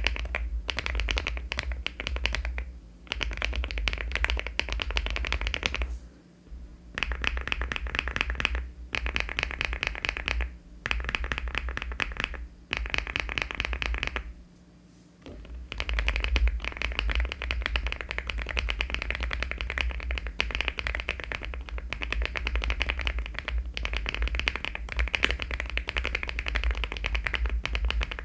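Fast typing on a LEOBOG Hi75 aluminium mechanical keyboard fitted with HMX switches and Cherry-profile keycaps: dense runs of key clicks, broken by several short pauses.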